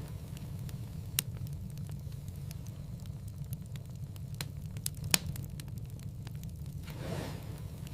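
Wood fire crackling in a fireplace: a steady low rumble under scattered small snaps, with two louder pops, about a second in and about five seconds in, and a brief soft rush near the end.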